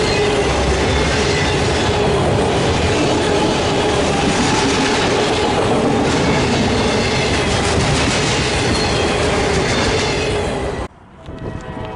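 CSX freight train cars rolling past at close range: a loud, steady rumble and clatter of steel wheels on the rails, with a ringing squeal over it. It cuts off abruptly about a second before the end, leaving a much quieter sound with a few steady tones.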